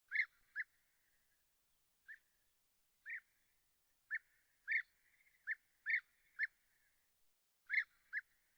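A bird calling in a series of short, sharp notes, singly and in pairs at irregular spacing, about eleven in all, with a faint rattling trill under some of them.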